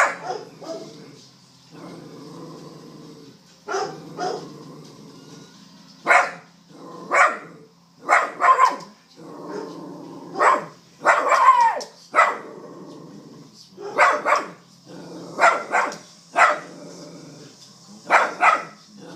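Miniature Pinscher barking aggressively, about twenty sharp barks singly or in quick pairs, with low growling between them.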